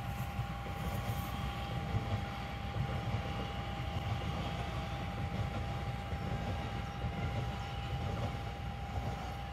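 Trains at a station: a regional express pulling out on the main line behind a standing narrow-gauge diesel railcar, heard as a steady low rumble with a constant high whine.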